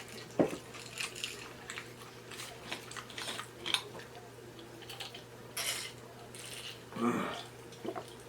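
Close-miked eating sounds: scattered crunches, mouth clicks and small knocks while eating loaded hard-shell tacos, with a short low vocal sound near the end.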